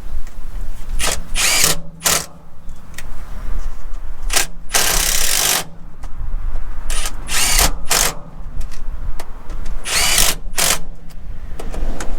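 Power tool run in short bursts, about nine times, with the longest burst near the middle lasting almost a second.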